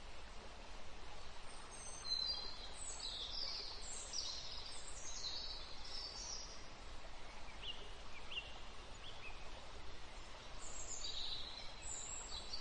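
High, quick bird chirps and warbles in two spells, with a few short rising chirps between them, over a steady hiss of background noise.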